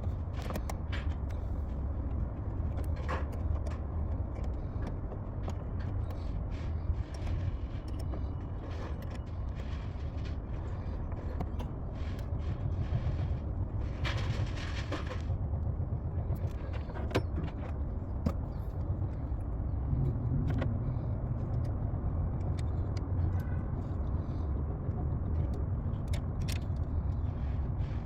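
A car running: a steady low hum with scattered clicks, a short hiss about fourteen seconds in, and the hum growing a little stronger from about twenty seconds in.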